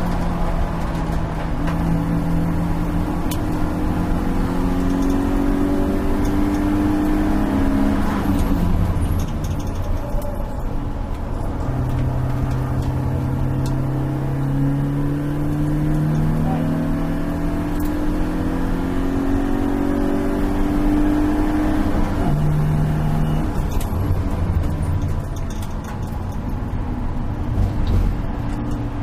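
Stock four-cylinder engine of a BMW E36 318is race car, heard from inside the stripped cabin at racing speed: the revs climb under acceleration and drop back several times, over a steady rumble of road noise.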